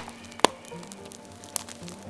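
Sharp cracks of dead bamboo popping in a fire, two of them, the first about half a second in and the louder, over soft background music with held notes.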